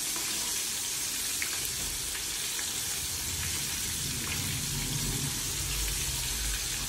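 Crumb-coated chicken pieces frying in hot oil: a steady sizzle with a few light pops.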